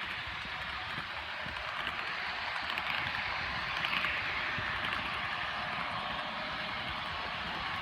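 HO-scale Broadway Limited AC6000 model locomotive running, a steady hissing drone with little low end that swells slightly midway.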